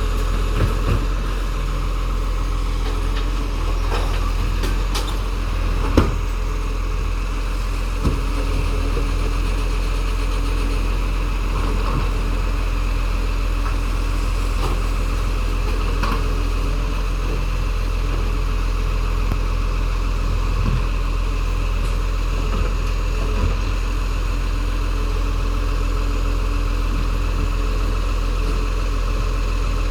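Recycling truck's engine running steadily at idle, with a few short sharp clunks over it, the loudest about six seconds in.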